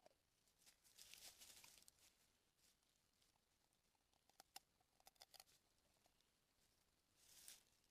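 Faint rustling of something moving on the ground: soft rustles about a second in and again near the end, with a quick run of small clicks in the middle.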